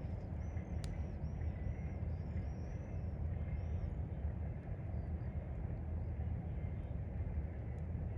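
Outdoor evening soundscape: a steady low rumble throughout, with a bird's short high chirps repeating about three times a second during the first half, and a couple of sharp clicks.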